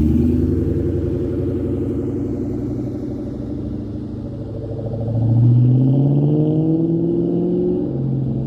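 2003 Mustang SVT Cobra's supercharged 4.6-litre V8 running through a Bassani exhaust. The engine speed settles slowly at first, then about five seconds in it revs up, climbs for a couple of seconds and drops back near the end.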